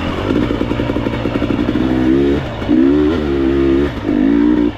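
Enduro dirt bike engine running under throttle while riding a trail, revving up about two seconds in and then easing off and opening up again twice as the rider works the throttle.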